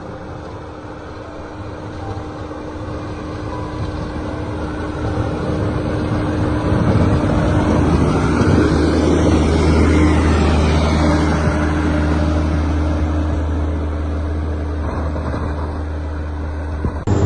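Engine of a heavy snow-clearing machine running, growing louder over the first several seconds, then settling into a steady low drone.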